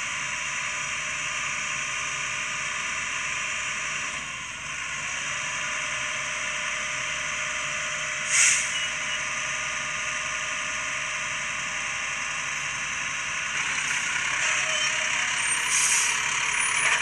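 Garbage truck running steadily, with a sharp hiss of air from its brakes about eight seconds in and more short hisses near the end.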